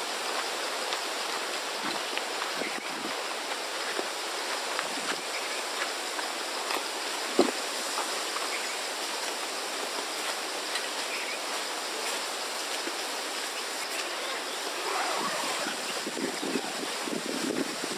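Strong wind blowing steadily, a continuous rush with a few small knocks and one sharper thump about seven seconds in.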